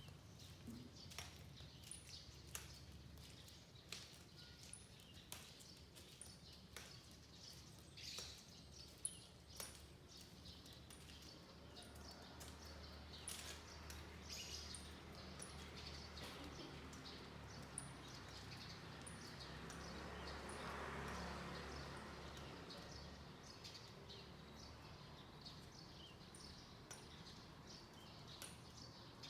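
Faint morning birdsong, mostly short, sharp chirps scattered throughout, with a small high note repeating about once a second over a low steady hum. A soft rush of noise swells up past the middle and fades again.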